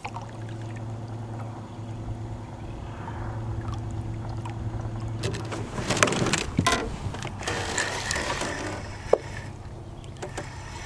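A boat motor starts and runs with a steady low hum. A short burst of knocks and rattles breaks in about six seconds in.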